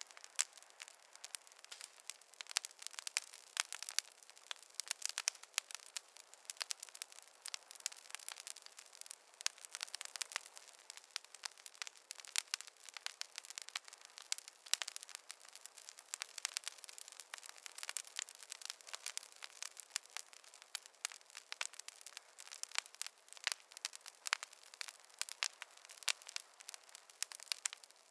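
Wood fire crackling: a dense, irregular run of small pops and snaps from burning logs.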